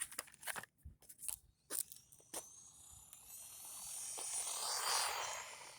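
A few sharp clicks and knocks, then the modded carbon-brush 180 motor of a 1/20 Xinlehong 9145 RC monster truck whining higher as the truck accelerates. The motor and tyre noise grow louder to a peak about five seconds in, then fade.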